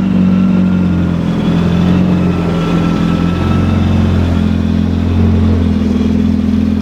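Supercharged four-cylinder engine of a 2019 Yamaha FX SVHO jet ski running at high, steady revs under a full-throttle run, its pitch stepping up slightly about five seconds in.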